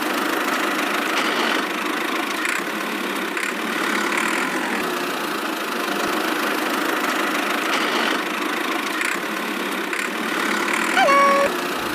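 Small motor of a miniature DIY model machine running steadily with a constant mechanical whirr. A brief tone near the end steps down in pitch.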